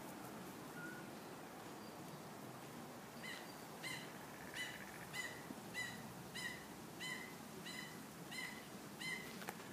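A bird calling a short, slightly falling note over and over, about one and a half notes a second, starting about three seconds in, over faint outdoor background noise.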